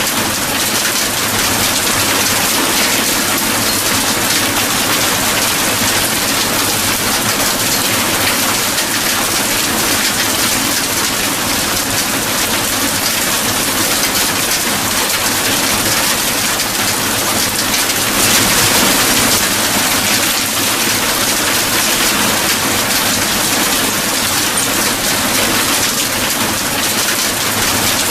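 Steady rain: a dense, even hiss of drops, swelling slightly about eighteen seconds in.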